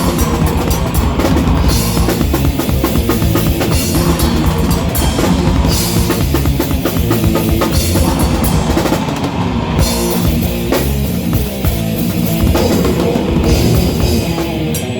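Rock band playing live at full volume, the drum kit driving the music with kick drum and snare.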